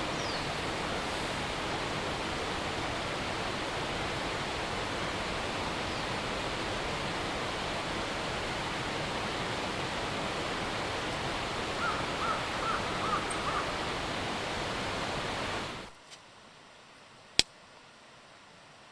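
Steady rush of running water, like a stream, with a short run of five or six small bird chirps a little past the middle. Near the end the rushing cuts off suddenly, leaving a much quieter background with one sharp click.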